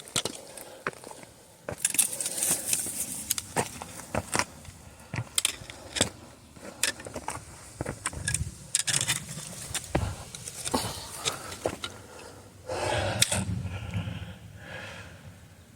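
A hiker's footsteps on a rocky trail: irregular sharp clicks and scrapes, with a light jangle of gear, and a louder rustle near the end.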